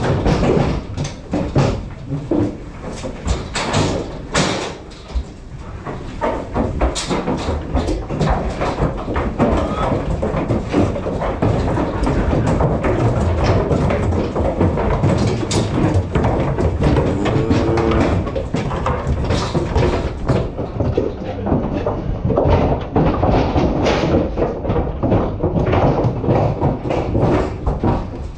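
Unloading a lorry: a busy run of knocks, thuds and clatter, with door slams.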